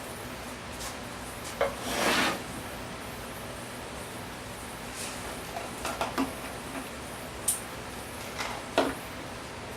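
A few scattered light knocks and clicks, with a short scrape about two seconds in, as objects are handled and set down.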